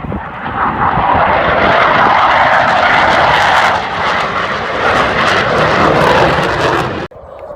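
Loud, steady aircraft engine noise from a fixed-wing aircraft in flight, swelling slightly and cutting off abruptly about seven seconds in.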